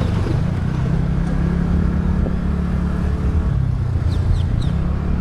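TVS Ntorq 125 scooter's single-cylinder engine running at a steady pace while being ridden, a low steady hum under road and traffic noise. A few faint high chirps come about four seconds in.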